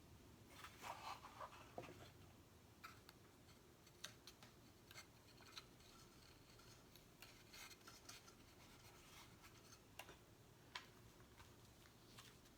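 Faint crinkles and small scattered ticks of stickers being handled, peeled and pressed onto a box, with a short cluster of rustling about a second in.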